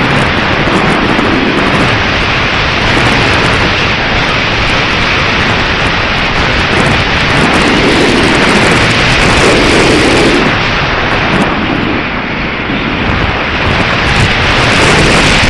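Strong gusty wind buffeting the microphone: a loud, continuous rumbling hiss that eases a little about three-quarters of the way through.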